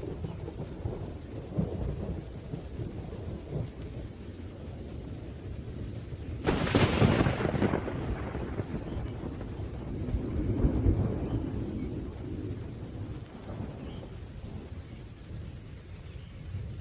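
Thunderstorm: low thunder rumbling with steady rain, and a sharp thunderclap about six and a half seconds in that rolls away over a couple of seconds, with another swell of rumbling a few seconds later.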